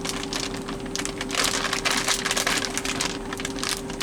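Plastic packaging crinkling and rustling in dense crackles as a package of frozen fish fillets is handled and opened, over a steady hum.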